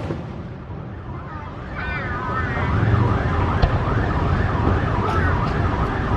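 A siren wailing with a fast rising-and-falling pitch, about three swings a second, over a steady low rumble. A single sharp crack comes about three and a half seconds in.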